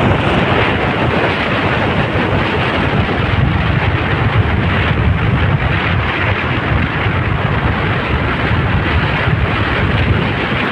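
Steady rushing wind on the microphone from a moving motorcycle, with the ride's road and engine noise underneath.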